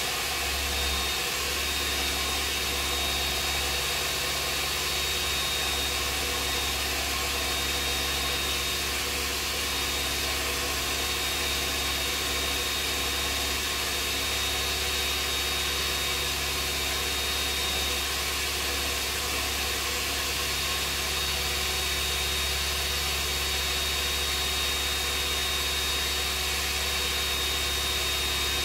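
Steady machine hum with a low drone and a faint, thin high whine, unchanging throughout.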